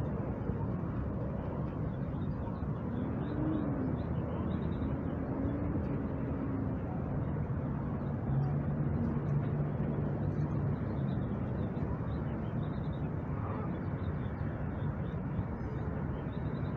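City park ambience: a steady hum of distant traffic with faint, repeated bird chirps.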